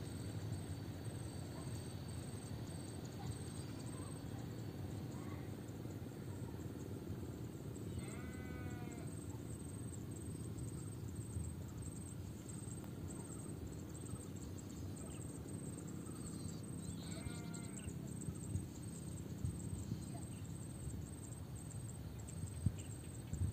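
Livestock bleating twice, each call about a second long with a wavering pitch, roughly nine seconds apart, over a steady low rumble.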